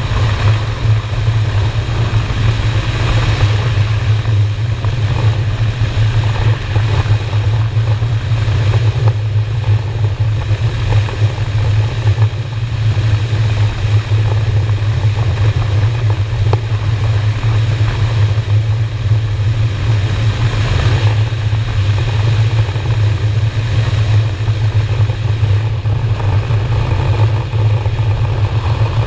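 Honda Shadow's V-twin motorcycle engine running steadily at cruising speed, with wind rushing over the microphone.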